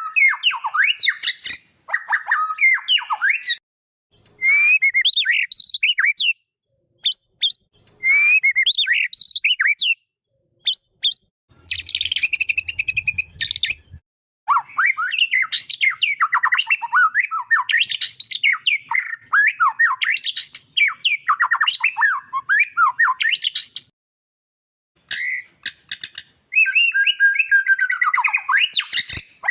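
White-rumped shama (murai batu) singing in quick, varied phrases of chirps and whistles, broken by sudden silent gaps. A harsh, rasping call runs for about two seconds midway through.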